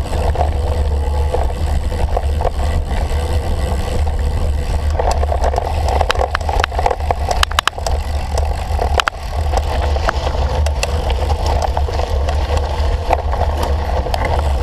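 Wind buffeting the microphone of a cyclocross bike in motion, with a steady low rumble and tyre and frame noise over rough ground. Scattered sharp clicks and knocks of the bike rattling run through it.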